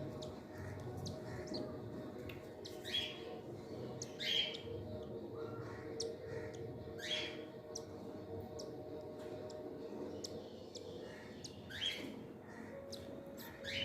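Cockatiel calling: about five short, rising chirps spaced a few seconds apart, with fainter chirps between them, over a steady low hum.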